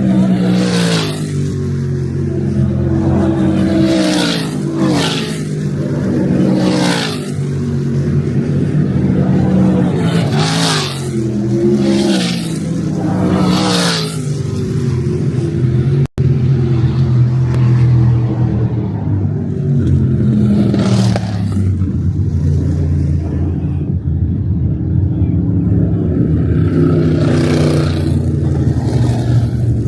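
Sprint cars running laps, a continuous drone of several engines with cars passing close again and again, each pass a loud rise and fall in engine pitch. The sound cuts out for an instant about halfway through.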